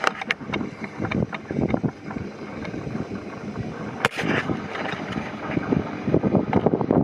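Railway carriage running along the track behind a steam locomotive, with irregular rattles and clanks and a sharp knock about four seconds in.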